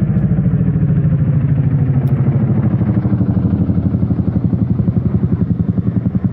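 Chinook helicopter's tandem rotors beating in a rapid, even pulse, growing slightly quieter toward the end.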